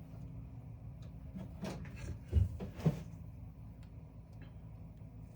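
A few light clunks and clicks of metal tools and parts being handled, over a steady low hum.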